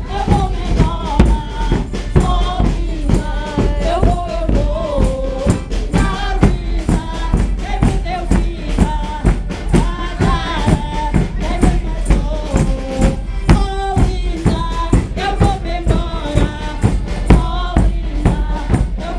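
A bombos group playing: large bombo bass drums and other drums beat a steady, fast rhythm under a pitched melody line.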